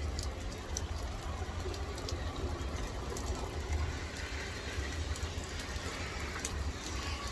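Heavy rain pouring down: a steady hiss over a constant low rumble, with scattered sharp ticks of drops or splashes.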